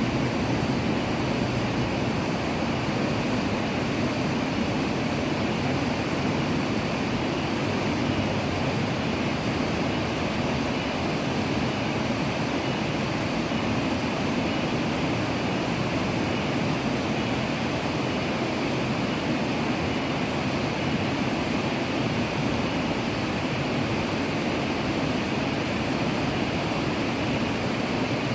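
Steady rush of running water, an even hiss without any breaks.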